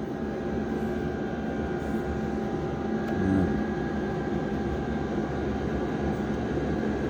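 A steady low rumbling noise with a faint constant hum, swelling slightly about three seconds in.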